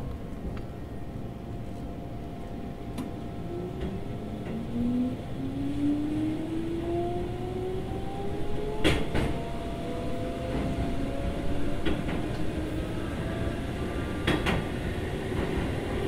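Keikyu 2000 series electric train heard from on board, its traction motors whining and rising steadily in pitch as the train accelerates from about four seconds in, over a low rumble of wheels on rail. Sharp rail-joint clacks come at about nine, twelve and fourteen seconds.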